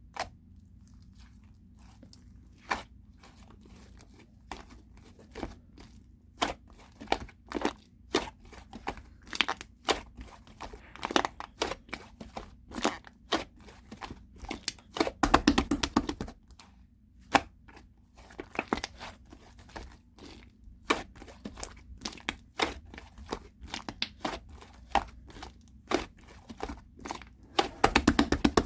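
Clay slime being handled: squished, pressed and stretched, giving an irregular run of sharp pops and crackles. The pops come thickest about halfway through and again near the end.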